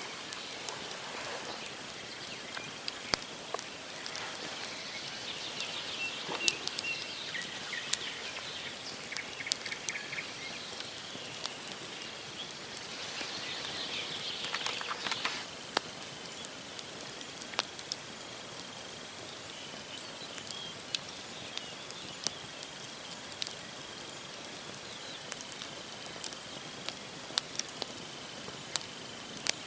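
Campfire logs burning and crackling, with sharp pops at irregular intervals over a soft steady hiss. A couple of short chattering bird calls come in the first half, and a thin, steady high tone runs through the second half.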